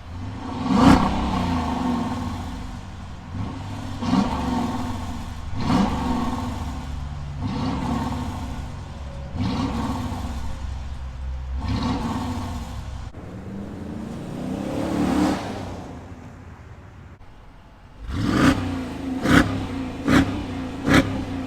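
2020 Dodge Durango R/T's 5.7-litre V8 revved again and again, each rev rising and falling back, a few seconds apart. Near the end come four quick, short blips of the throttle in about three seconds.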